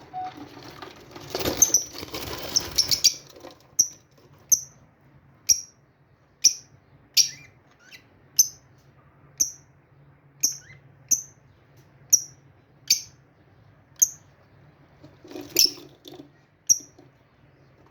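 Small cage birds chirping: short sharp high chirps repeated about once a second, with a busier flurry of calls in the first few seconds and another near the end. A faint steady low hum runs underneath.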